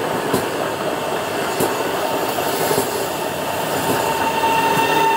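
Train running through the station on its rails, with faint clicks from the wheels. About two seconds in, a steady high wheel squeal sets in and grows louder.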